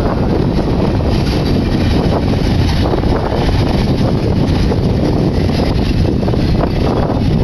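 Freight cars of a double-stack container train rolling past, a steady rumble of wheels on rail, with wind buffeting the microphone.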